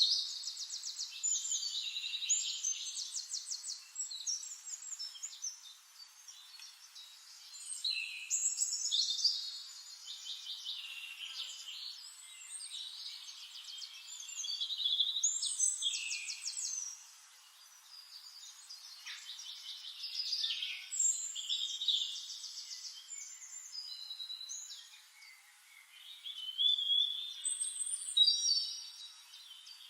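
Songbirds singing high-pitched phrases of rapid trills and short whistles, one after another, the song swelling and fading every few seconds.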